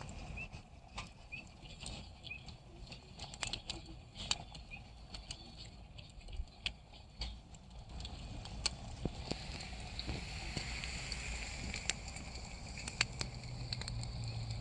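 Wood fire crackling with sharp, irregular pops; a soft hiss swells about ten seconds in.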